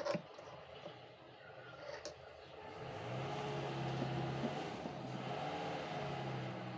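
A couple of sharp clicks at the start, then a motor vehicle engine's steady low hum that swells up about two and a half seconds in and fades toward the end.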